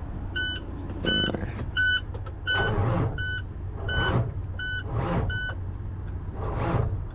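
Truck dashboard warning beeper sounding over and over, a short electronic beep roughly every 0.7 seconds, stopping about two thirds of the way in. A steady low hum runs beneath it, and several swelling whooshes come in the second half.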